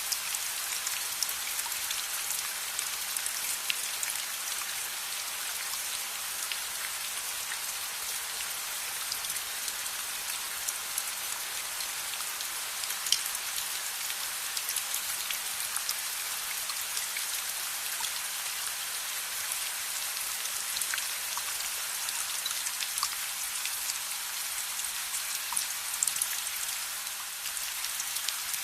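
Steady rain hissing, with scattered sharp ticks of drops landing.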